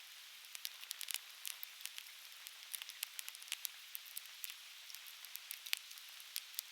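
Softwood firewood burning in an open fire pit, crackling with many irregular sharp pops over a steady hiss.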